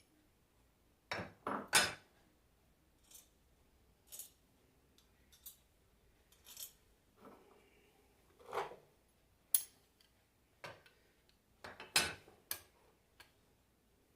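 Irregular metal clinks and taps as alternator parts and tools are handled while a bearing is fitted into a Nissan alternator. There are single sharp knocks every second or so, with the loudest clusters near the start and about twelve seconds in.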